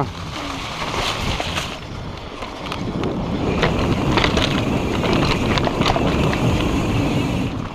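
Mountain bike riding over a dirt trail: wind buffeting the microphone over the rolling of the tyres, with light clicks and rattles from the bike over bumps in the middle of the stretch.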